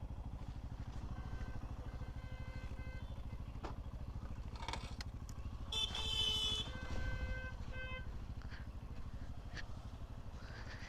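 Motorcycle engine running steadily with a low, rapid pulse, while vehicle horns honk: a faint horn about two seconds in, a loud honk about six seconds in, and another horn right after.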